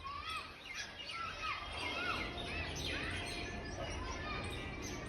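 Several small birds chirping, with many short rising-and-falling chirps, busiest in the first three and a half seconds. A low steady rumble runs underneath.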